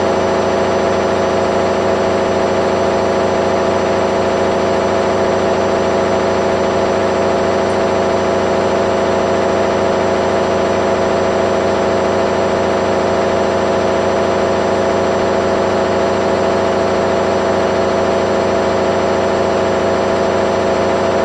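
Candy washing machine spinning at a steady high speed: a loud, even hum with several steady whining tones. It is the final spin, which the owner says ran very noisily at about 900 rpm rather than the 800 rpm that was set.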